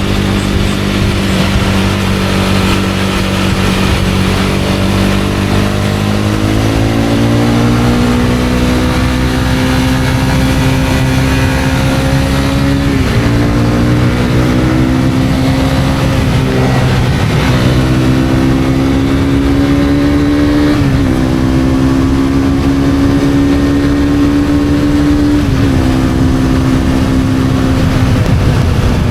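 Honda CB250R's single-cylinder engine under way: the engine note climbs steadily, drops sharply at each of three gear changes about 13, 21 and 25 seconds in, then climbs again, over steady wind and road noise.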